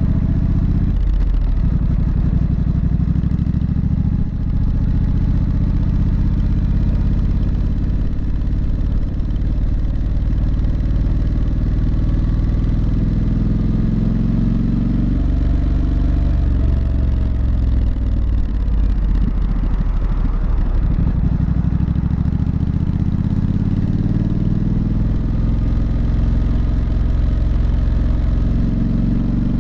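Triumph Street Scrambler's parallel-twin engine and exhaust running under way, its pitch rising and falling as the bike accelerates, shifts and eases off.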